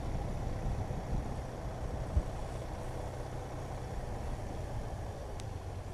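Motorcycle engine running and wind and road noise while riding, with a sharp thump about two seconds in as the bike goes over a road bump.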